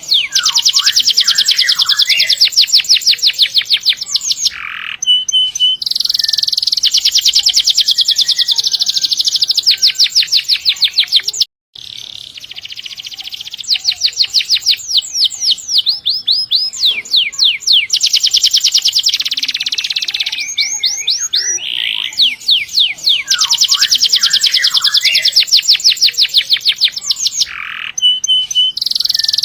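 Domestic canary singing vigorously in long rolling trills: runs of very fast, evenly repeated high notes, phrase after phrase, with a brief silent gap about eleven seconds in.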